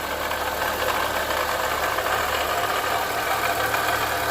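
Chevrolet Corsa Classic VHC-E engine running at idle with a steady grinding noise, like iron being ground. The noise comes from play in the bearing of the recently fitted water pump.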